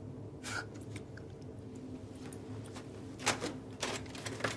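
Quiet room tone: a steady low hum with a few faint clicks and rustles, the clearest a little over three seconds in.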